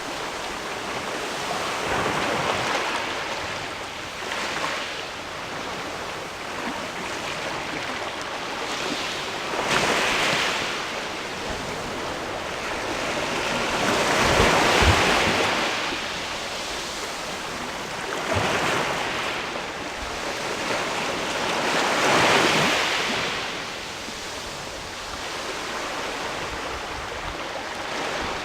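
Sea waves washing in against a rocky shore, the surf swelling and fading every few seconds, with the strongest surges around a third, halfway and three quarters of the way through.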